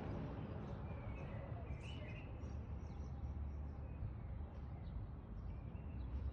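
Faint, short bird chirps, a few about a second or two in and again near the end, over a steady low outdoor rumble.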